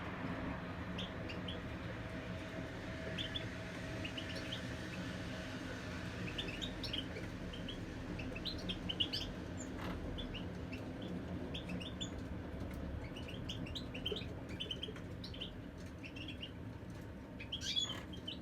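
Caged European goldfinches chirping and twittering in short, scattered notes over a low steady hum, with a louder flurry near the end.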